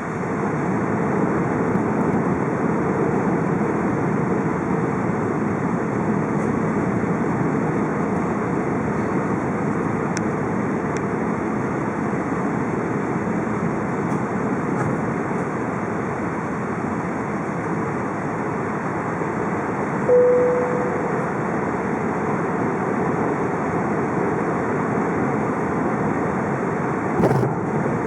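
Steady rushing cabin noise of an Airbus A380 in motion, engines and airflow heard from inside the passenger cabin. A single short chime sounds about two-thirds of the way through, and there is a brief click near the end.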